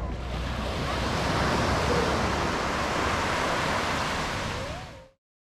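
Ocean surf washing onto a beach, a steady rush of breaking waves that cuts off suddenly about five seconds in.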